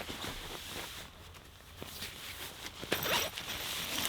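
A zipper being pulled in quick strokes with fabric rustling, quieter at first and louder from about three seconds in.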